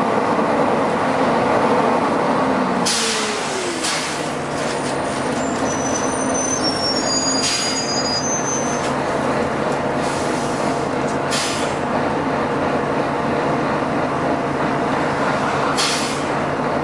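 Volvo B9TL bus slowing, its engine note falling, then running at a steady low drone. Sharp air hisses from its pneumatic system break in about five times, and brief high squeals come in the middle.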